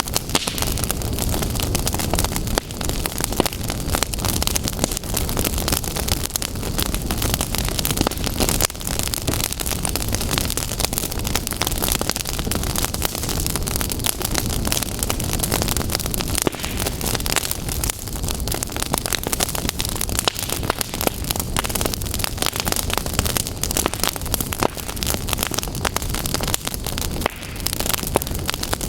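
Fire crackling steadily, dense sharp pops and snaps over a low rushing rumble.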